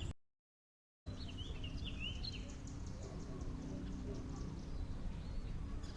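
Steady outdoor background noise with a few quick bird chirps about a second in, after a short dropout to dead silence at the start.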